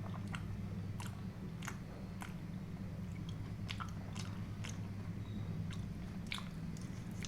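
Close-up chewing of creamy white sauce pasta, with irregular wet mouth clicks over a steady low hum.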